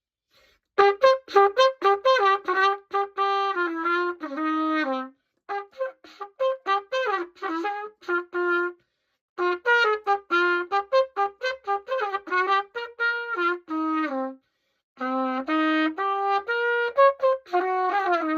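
Old pocket cornet played in four short phrases of quick tongued notes, with brief pauses between the phrases; the instrument has just been cleaned and reassembled.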